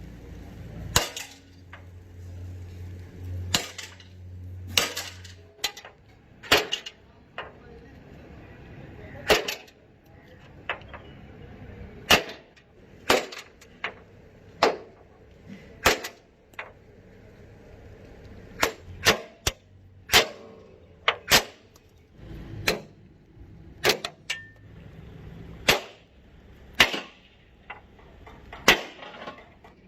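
Hammer blows on metal, sharp ringing strikes coming irregularly about once a second, sometimes in quick pairs.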